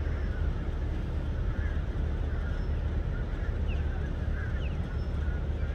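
Birds calling over a steady low rumble: repeated wavering mid-pitched calls, and a few short high chirps about four and four and a half seconds in.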